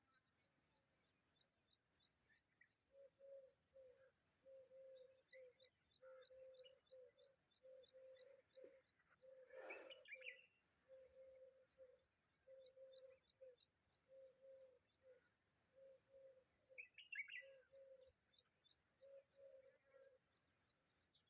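Faint bird calls: several runs of rapid high chirps, about seven a second, over a long series of short low notes in small groups, with a couple of louder single chirps.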